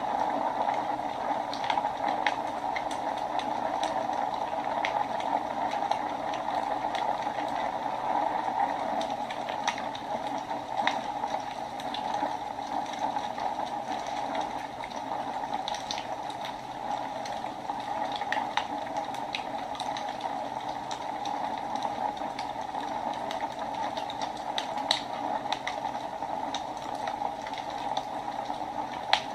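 Wood fire burning in a fireplace: irregular sharp crackles and pops over a steady rush of flame.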